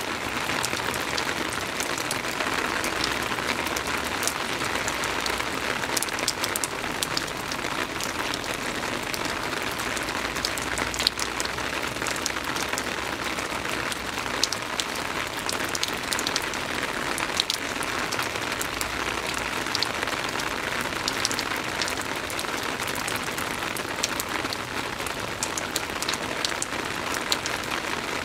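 Soft rain falling steadily: an even hiss dotted with many small, sharp ticks of single drops landing.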